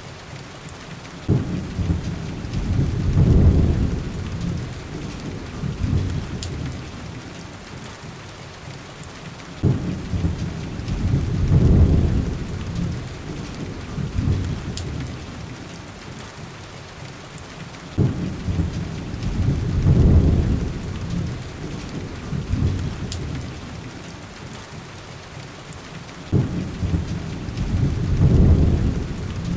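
Heavy rain on window glass as a steady hiss, with a deep low surge that starts suddenly, builds and fades four times, about every eight seconds, and a few faint fireplace crackles.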